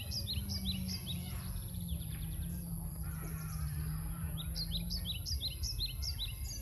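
A small bird singing rapid series of short, high chirps, about six a second: one run in the first second and another from about four and a half seconds in to the end, with a low steady rumble underneath.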